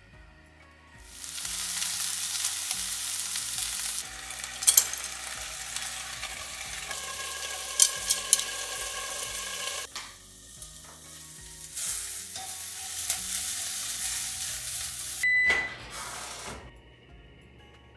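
Food sizzling in a hot pan: a steady hiss that starts about a second in and breaks off a few times, with several sharp clicks of a utensil against the pan.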